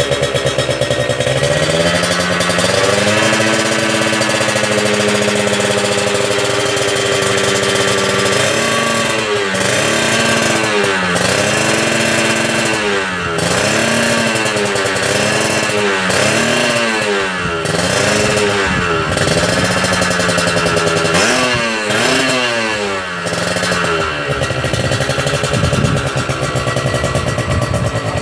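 Kawasaki Ninja RR two-stroke single running through an aftermarket chrome-silencer exhaust, with a crisp, jingling note. The engine holds a steady speed at first. About nine seconds in, the throttle is blipped again and again, about once a second, and the engine then settles back to idle.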